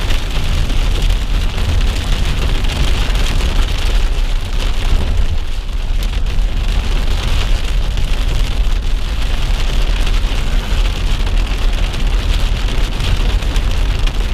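Heavy storm rain, a steady rushing noise with a deep rumble underneath.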